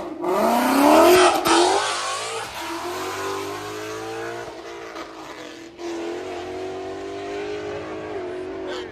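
Car engine revving hard, its pitch climbing over the first second and a half, then held at a steady high note.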